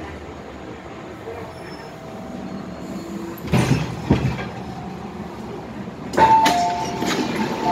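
MTR M-Train car interior at a station: steady low running noise, two heavy clunks a little past three seconds in, then about six seconds in a louder burst with a two-note electronic tone stepping down in pitch.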